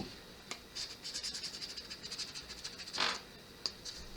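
Rapid scratching of a scratch-off card, its coating rubbed away in quick short strokes, with a brief swish about three seconds in.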